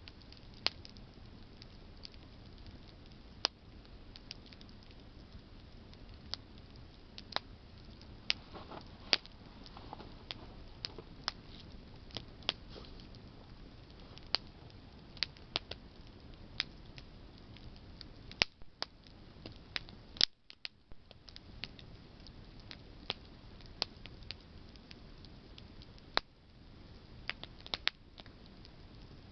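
Campfire of burning branches crackling: sharp, irregular pops and snaps over a low steady hiss.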